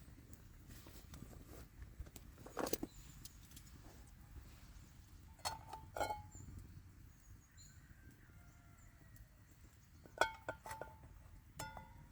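Small metal objects clinking, a few sharp hits with a short ring, among scattered light knocks and handling noises.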